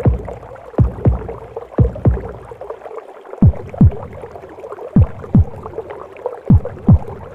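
Heartbeat as heard in the womb: deep double thumps, lub-dub, about every second and a half, over a steady muffled whooshing womb noise.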